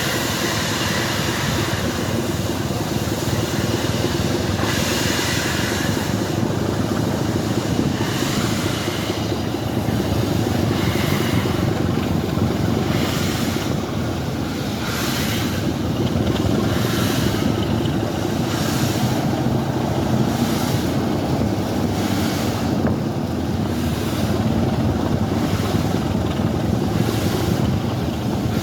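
Train running along the line: a steady rumble of wheels on rails, with a regular click about once a second from the rail joints.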